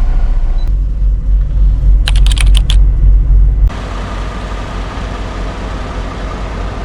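Semi truck on the move: a steady low engine and road rumble, with a quick run of sharp clicks about two seconds in. Just past halfway the rumble drops suddenly to a quieter, steadier level.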